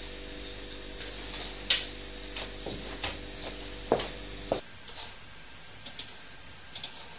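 A handful of sharp clicks and light knocks, irregularly spaced, over a steady hum that cuts off suddenly a little past halfway. After that come a few faint ticks.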